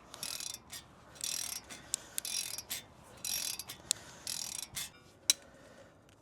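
Hand ratchet wrench clicking in about five short strokes, roughly one a second, as a bolt is worked out by hand. A single sharp click comes about five seconds in.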